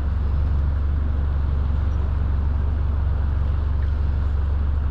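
Boat motor running steadily, a loud low drone that shifts slightly in pitch just as it begins.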